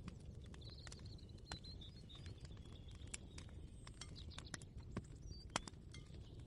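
Kitchen ambience: a low steady rumble with sharp clicks and knocks at irregular moments, and faint high chirping.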